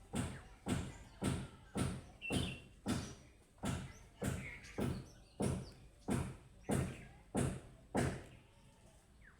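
A steady series of dull thuds, about one every 0.6 s, that stops near the end, with a few faint budgerigar chirps between them.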